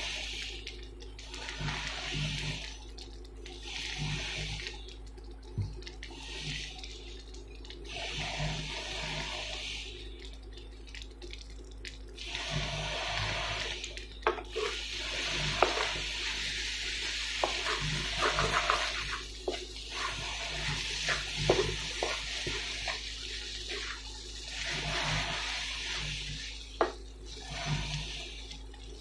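Kimchi fried rice sizzling in a nonstick pan on an induction cooktop, left to go crunchy on the bottom. The sizzle swells and fades every couple of seconds over a steady low hum. In the second half come scrapes and clicks of a spatula stirring the rice.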